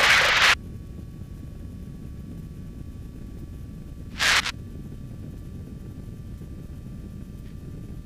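Steady, muffled low drone of a light aircraft's engine and cockpit noise, as picked up through the radio and intercom, with all higher sound cut off. A wide burst of radio hiss stops half a second in, and short bursts of hiss come about four seconds in and near the end.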